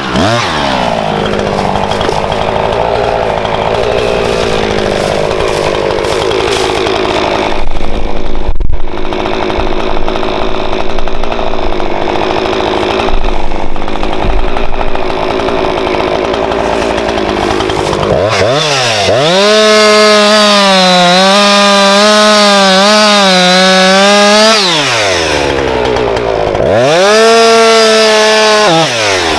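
Husqvarna chainsaw cutting through firewood logs, its engine pulled down under load. About two-thirds of the way in it revs up to a high, steady whine, drops back, then revs high again near the end.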